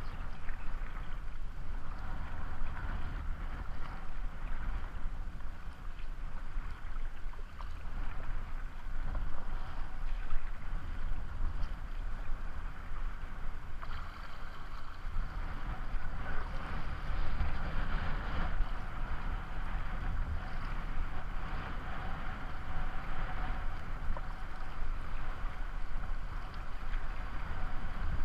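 Steady rush of river water, with wind rumbling on the microphone.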